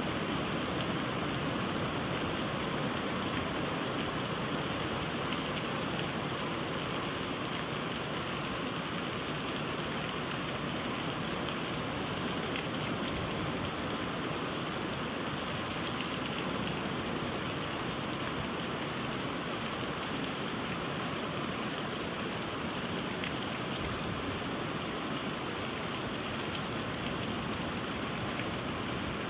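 Steady rainfall on trees and a fish pond: an even, unbroken hiss of drops with faint scattered patters.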